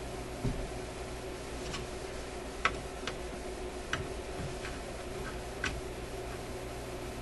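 Scattered light clicks and taps of small hand tools on metal as a stubborn screw holding a tube radio's shield can is worked at: about seven, irregularly spaced, the sharpest a little over two and a half seconds in. A steady low hum runs underneath.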